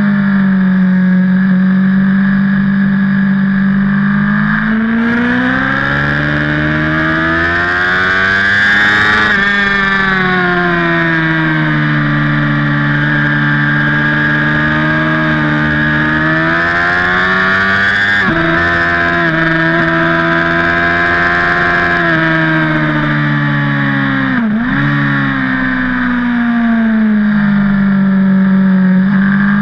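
BMW HP4 superbike's inline-four engine at speed on track. Its pitch rises and falls again and again as the rider accelerates and rolls off through the corners and gears, with a quick dip and recovery about 24 seconds in.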